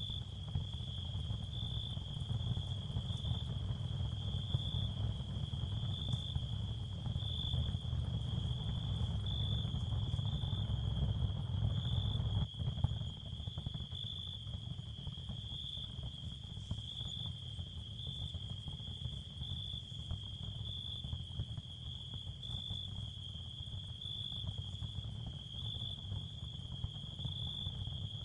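Ambient sleep soundscape: a steady high cricket trill that swells in a slow, regular pulse, over a steady low rumble, with a brief dropout about halfway through.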